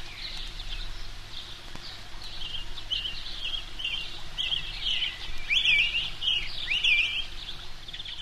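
Small birds chirping in a rapid run of short calls, with two louder calls about two-thirds of the way through and near the end, over a faint low hum.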